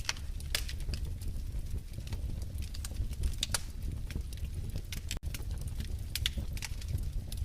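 Wood fire crackling in a fireplace: irregular sharp pops and snaps over a steady low rumble of the flames. The sound drops out for an instant about five seconds in.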